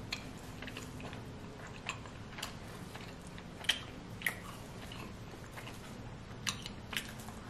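A mouthful of pepperoni pizza being chewed with the mouth closed: scattered short, sharp wet clicks and crunches, the loudest a little under four seconds in.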